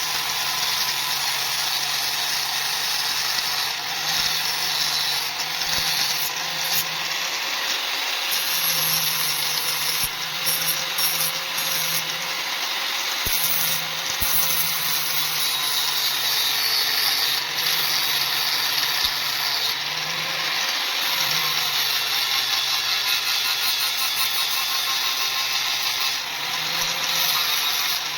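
Electric grinder running steadily against steel, a constant hum under a bright grinding hiss, the motor's pitch sagging slightly now and then as it is pressed into the work.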